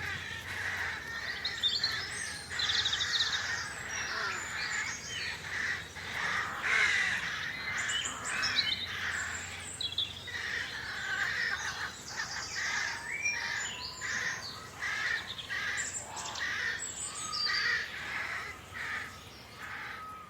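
Countryside birdsong ambience: many birds calling and singing at once, with chirps, trills and rapid buzzy phrases overlapping, and crow-like caws among them.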